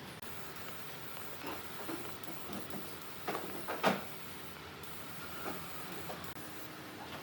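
A few scattered light knocks and clicks over a steady hiss, the loudest two close together a little past halfway; a faint steady hum comes in near the end.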